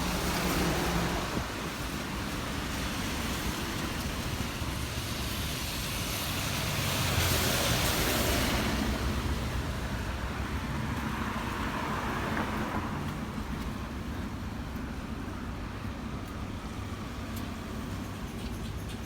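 Road traffic on a wet street: a steady rush of traffic noise, with a vehicle swishing past louder about seven seconds in and another quieter pass around twelve seconds.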